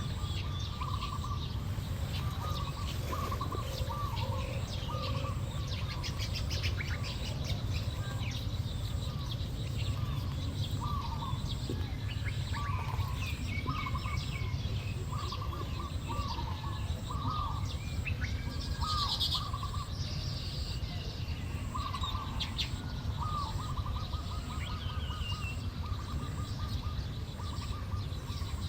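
Weaver birds chattering and chirping, with a short mid-pitched call repeated roughly once a second and scattered higher twittering notes, over a steady low rumble.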